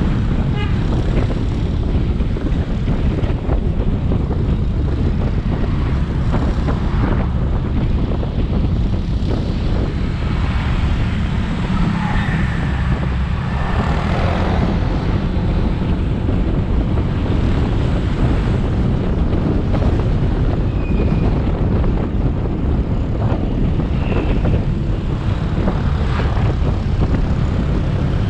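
Motorbike riding along, its engine running steadily under heavy wind noise on the microphone, with road and traffic noise mixed in.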